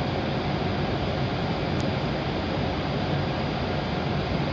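Steady rushing hum of a stationary W7 series Shinkansen train, its onboard equipment running while it waits at the platform.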